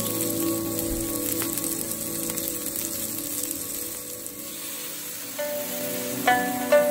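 Sliced onions and garlic sizzling in hot oil in a stainless steel wok, a steady frying hiss under soft background music. About five seconds in, plucked notes of the music come in over the sizzle.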